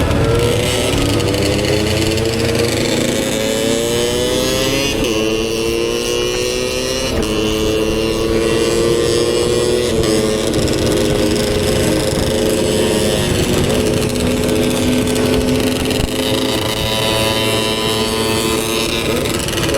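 Motorcycle engine pulling through the gears: its pitch climbs over the first few seconds, changes in steps at each shift, then holds steady at cruising speed, over a steady rushing noise.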